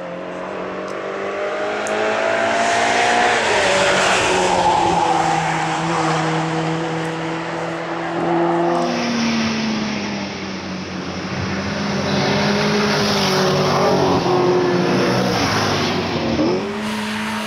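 Classic Mini's four-cylinder engine run hard at speed on a race track, loud and high-revving as it passes. The pitch falls as it comes off the throttle or shifts about three and a half seconds in, holds high again, and climbs sharply near the end.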